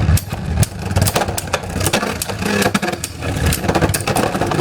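Plastic Beyblade tops and parts clicking and clattering, a quick irregular run of sharp clicks.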